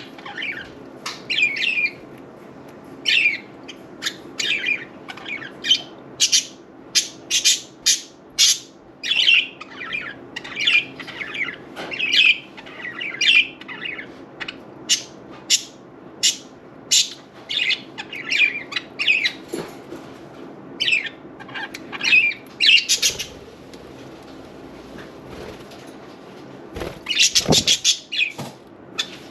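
Budgerigars chirping and squawking in quick, short calls one after another, with a brief noisy flurry near the end.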